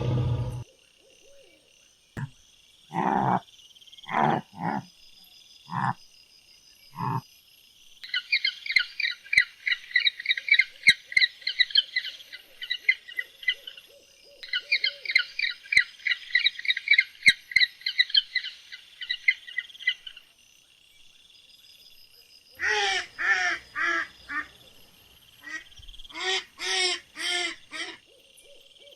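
A sequence of animal calls: about five low hoots, then a long run of fast, high, rapid chirping, then a series of loud, harsh, repeated calls near the end.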